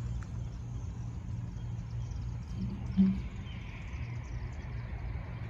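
Low, steady rumble of an approaching freight train's diesel locomotives, with a short, loud low thump about three seconds in.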